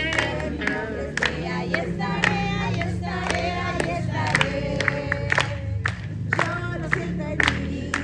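A group of voices singing a Spanish-language Christian worship song together, with instrumental accompaniment and a steady beat of about two strokes a second.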